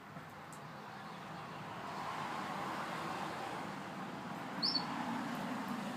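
A single short, high chirp from a Gloster canary a little before the end, over a broad rushing background noise that swells from about two seconds in and then eases.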